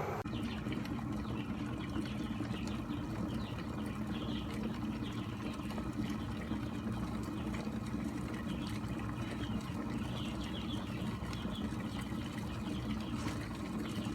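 COSORI glass electric kettle heating water: a steady low rumble with faint scattered crackling from the water.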